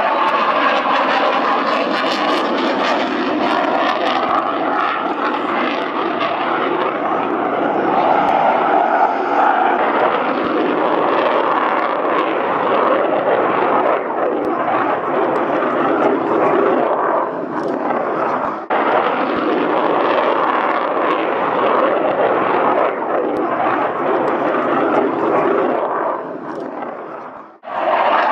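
Propeller plane engine droning as it flies manoeuvres, its pitch slowly rising and falling as it turns and passes. It fades and drops out briefly near the end, then returns.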